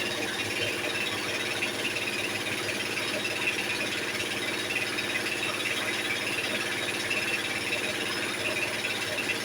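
An engine running steadily at idle, with a fast, even rhythm and no change in speed.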